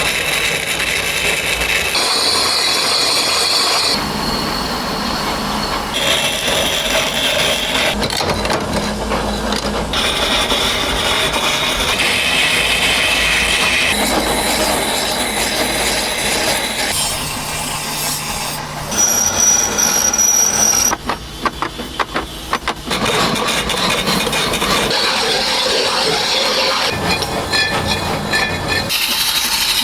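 A quick succession of stone-working tool sounds, changing every couple of seconds: grinding and cutting noise, one stretch with a high steady whine, and a stretch of rapid knocks about two-thirds of the way through.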